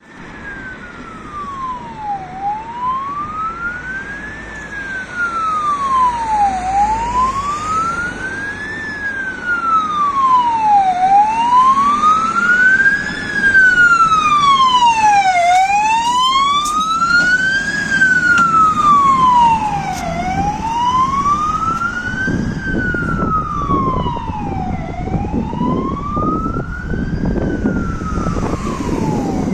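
Fire engine siren on a Renault D16 fire truck, wailing slowly up and down about every four and a half seconds. It grows louder over the first half as the truck approaches, and the truck's engine and tyre noise come up in the last third.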